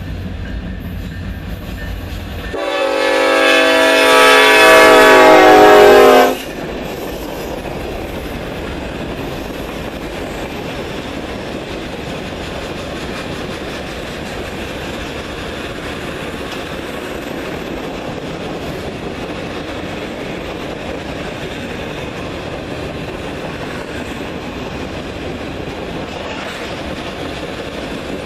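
Diesel freight locomotive sounds its air horn in one long blast of about four seconds, growing louder as it nears and cutting off sharply. Then come the steady rumble and clatter of empty flatcars rolling past on the rails.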